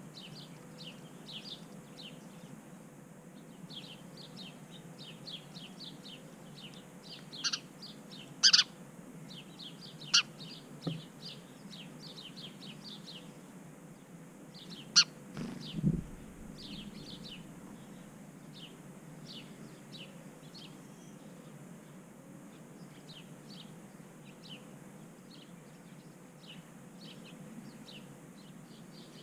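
Small backyard songbirds chirping steadily, with a few louder, sharp calls in the first half. A low thump comes about halfway through.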